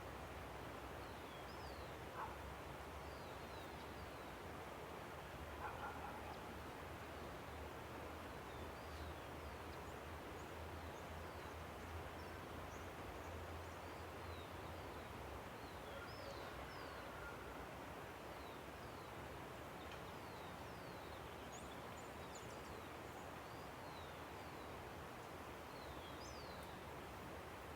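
Steady rushing of a river, with small birds giving short high chirps now and then. A couple of brief lower calls stand out in the first few seconds.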